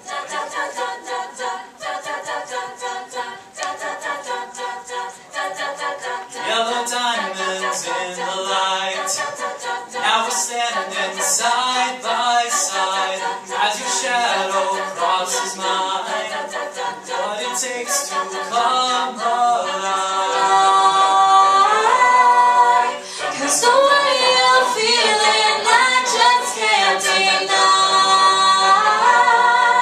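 A cappella vocal group singing in layered harmony, voices only, over a pulsing rhythmic backing with sharp hissing hits. The singing grows louder about two-thirds of the way through.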